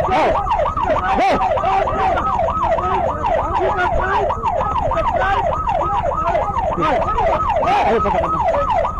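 Police motorcycle siren in a fast yelp, its pitch rising and falling about three to four times a second, over a steady low rumble.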